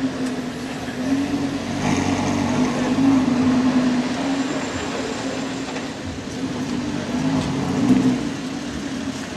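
Lamborghini Gallardo's V10 engine running with a steady mid-pitched hum that swells a few times as the revs rise and ease slightly.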